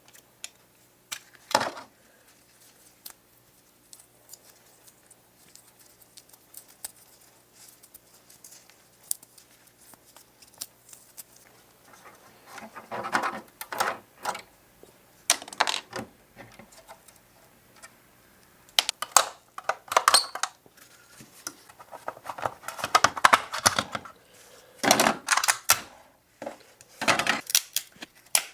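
Small metal parts and hand tools clicking, clinking and scraping while a miniature model truck is worked on: scattered sharp clicks at first, then a run of short scraping and rattling passages in the second half.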